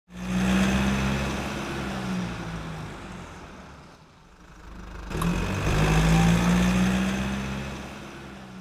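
A car engine running, swelling loud twice: once at the start, fading by about four seconds in, and again around six seconds in, then fading away.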